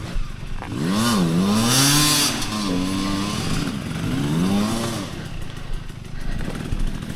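Enduro dirt bike engine revving up and falling back several times as the rider works the throttle on a steep downhill trail, with a brief hissing burst about two seconds in.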